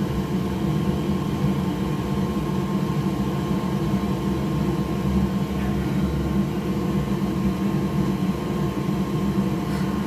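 Steady, unchanging machine hum, like a fan or motor running at the workbench, with no distinct clicks or other events.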